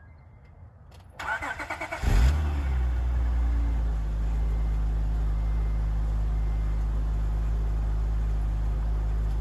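Acura TL with its stock exhaust, before the mid-muffler and resonator delete, being started: the starter cranks for about a second, the engine catches with a brief rev about two seconds in, then settles into a steady low idle.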